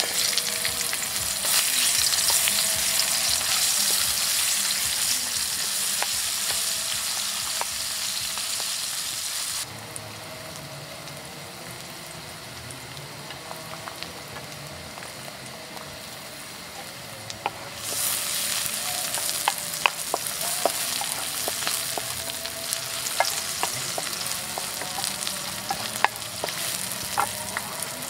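Sliced onion frying in hot oil in a wok over a portable gas stove: a steady sizzle, stirred with a wooden spatula that taps and scrapes the pan. The sizzle drops suddenly about ten seconds in and comes back louder near eighteen seconds, with sharper spatula clicks.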